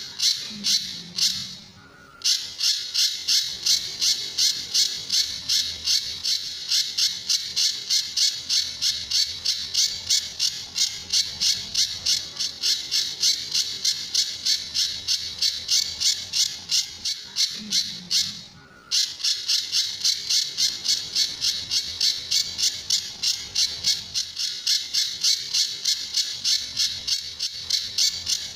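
A pijantur bird calling in a long run of quick, sharp, high notes repeated evenly at about three a second, with two short breaks: the song that Indonesian bird-keepers play as a 'masteran' recording for other songbirds to learn from.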